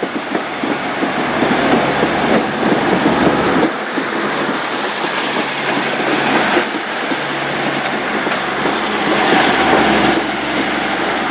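Diesel train passing along the platform, its engine humming steadily under a loud rumble of wheels on the rails, with a few clacks over rail joints.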